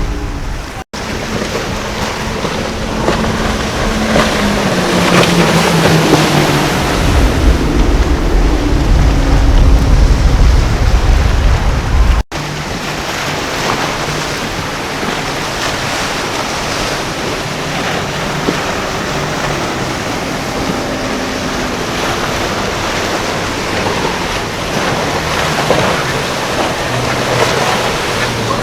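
Motorboat engine running over surf and wind on the microphone; early on an engine's pitch falls steadily as a boat passes, with a heavy low rumble, then after a cut a steadier, fainter engine hum under the waves.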